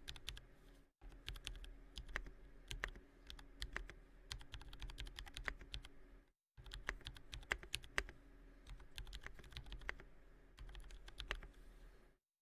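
Typing on a Space65 Cyber Voyager mechanical keyboard with Purple Panda switches lubed with Krytox 205g0: a quick, irregular run of keystroke clicks. The typing breaks off into silence twice, briefly, about a second in and past the halfway point.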